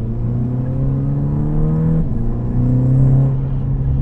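Turbocharged four-cylinder engine of a modified 2013 VW Golf GTI (Revo K04 turbo, aftermarket exhaust) pulling under acceleration, heard inside the cabin. Its pitch climbs, drops at an upshift of the dual-clutch gearbox about halfway through, then climbs again.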